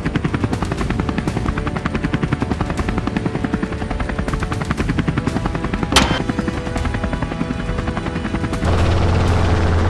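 Helicopter rotor blades chopping in fast, even pulses, with a single rifle shot about six seconds in. Near the end the sound changes abruptly to a louder, steadier low drone.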